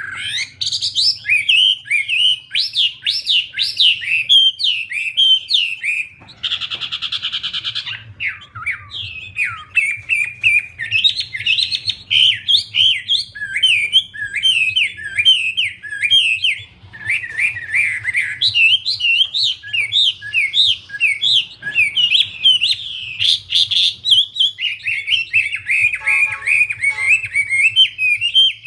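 Caged wambie songbird singing continuously in fast, warbling runs of chirps, with a harsh buzzy note about seven seconds in.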